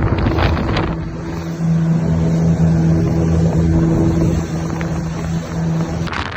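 Motorboat engine running steadily under way, a constant low hum with wind buffeting the microphone; the hum cuts off near the end.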